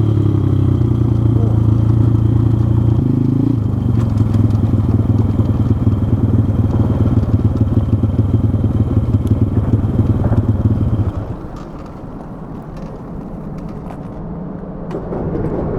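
Pit bike's small single-cylinder engine running steadily under way, heard close from a body-worn camera, with a shift in engine note about three seconds in. About eleven seconds in the engine sound drops away, leaving only faint rustling and clicks.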